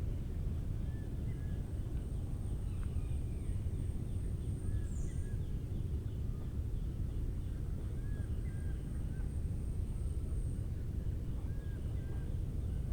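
Short, scattered bird chirps and a brief fast trill over a steady high-pitched insect drone, all above a loud, steady low rumble.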